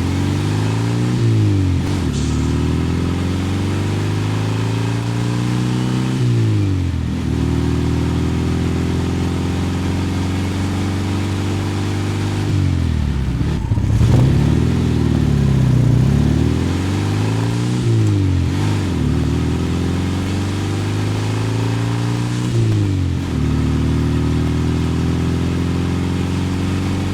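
Volkswagen Super Beetle engine accelerating under load: the pitch climbs steadily, then drops sharply at each gear change, repeating several times.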